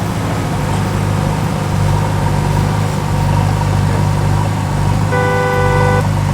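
A vehicle engine running steadily with a low drone. About five seconds in, a horn sounds and holds for about a second.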